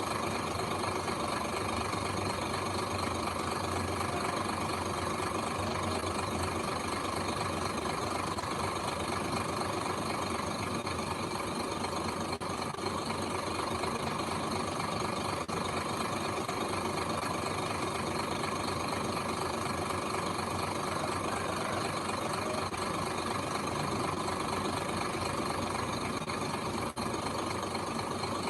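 Heavy machine's diesel engine running steadily at low revs.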